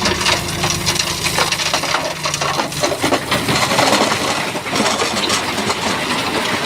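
Rocks clattering and grinding against each other as a Shantui bulldozer pushes a load of big stone, over the dozer's diesel engine running; the engine sound drops off about two and a half seconds in while the rattle of stone goes on.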